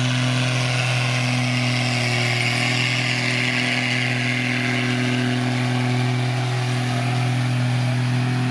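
Engine of a pulling vehicle running at high, steady revs, a loud drone that holds one pitch throughout.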